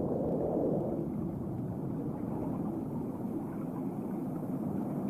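Low, steady underwater-style rumbling wash, swelling briefly in the first second.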